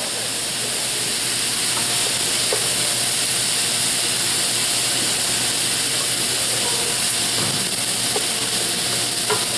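Vegetables and chickpeas sautéing in a hot pan: a steady sizzle, with a few faint clicks of stirring.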